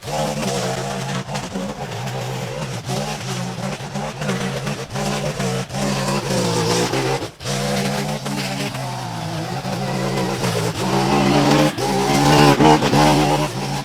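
String trimmer engine running at high throttle while edging, its pitch rising and falling as it revs, with a brief drop about seven seconds in and higher revs near the end.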